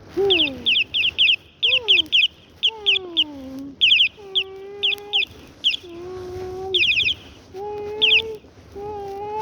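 A cat meowing over and over, some calls falling in pitch and others drawn out, with quick bursts of high bird chirping between and over them.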